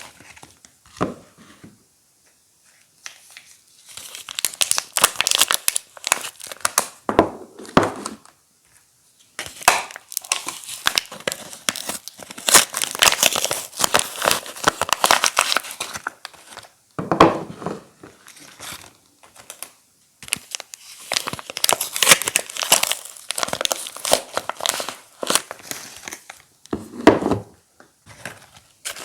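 Soap wrappers crinkling and tearing as they are unwrapped by hand, in irregular bursts with a few short pauses.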